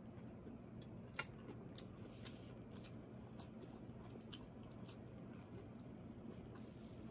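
Close-up mouth sounds of a person chewing broccoli: scattered small clicks and smacks, with one sharper click about a second in.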